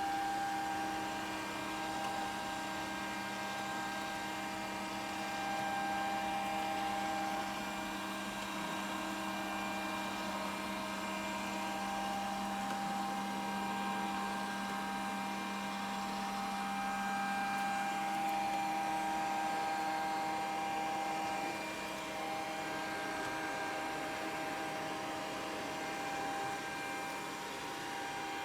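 Grundig VCR 2131 robot vacuum running: a steady whine from its motor and fan over a hiss, with a constant hum.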